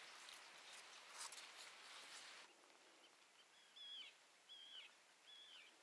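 Faint outdoor quiet: a soft hiss with a few light clicks that stops abruptly about halfway through, then a small bird calling four short slurred notes, a little under a second apart.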